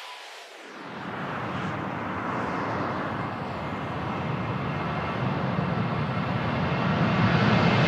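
Airplane engine noise from an approaching aircraft, a steady roar growing gradually louder from about a second in.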